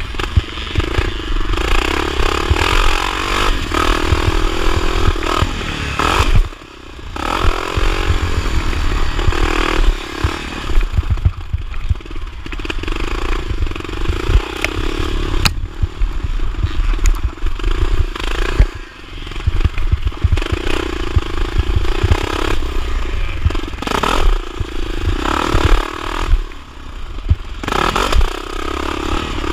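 1979 Honda XR500's single-cylinder four-stroke engine racing on a motocross track, the revs rising and falling with the throttle. The throttle closes briefly about six seconds in, then the engine revs back up.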